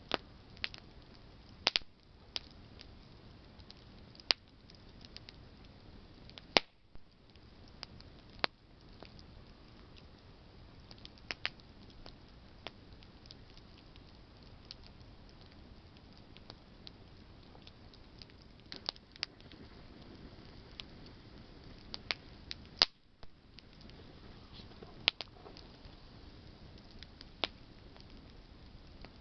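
Campfire of burning branches crackling: irregular sharp snaps and pops, a few much louder than the rest, over a steady low hiss of the fire.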